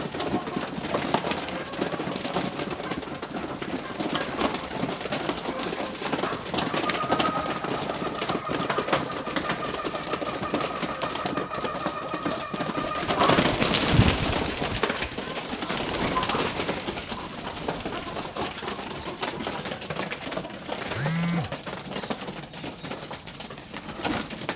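Domestic pigeons with continuous scratchy clicking and rustling, a short low coo about 21 seconds in, and a louder noisy burst about 13 seconds in. A steady high tone sounds for several seconds before the burst.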